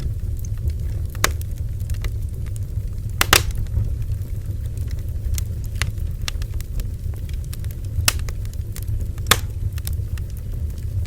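Bonfire burning: a steady low rumble of flame, with irregular sharp crackles and pops from the wood, the loudest a few seconds in and again near the end.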